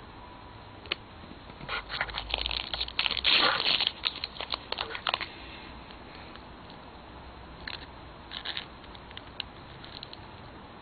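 Plastic candy wrapper crinkling and tearing as it is handled, densest for about three and a half seconds, then in a few short bursts near the end.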